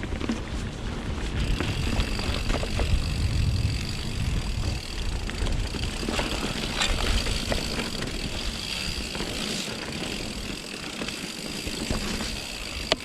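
Mountain bike being ridden over wet trail on Pirelli Scorpion tyres: tyres rolling, wind buffeting the microphone, and scattered clicks and knocks from the bike. A steady high buzz runs through most of it, with the heaviest rumble in the first few seconds.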